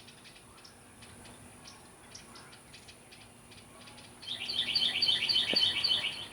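Songbird calls: faint scattered chirps, then about four seconds in a loud, fast run of repeated high notes lasting about two seconds.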